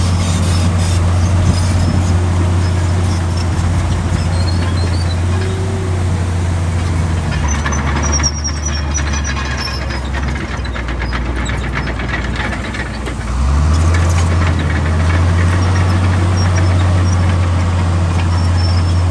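Heavy diesel earthmoving machinery running steadily. The engine note drops lower for several seconds in the middle, then comes back up. Brief high metallic squeals sound over it.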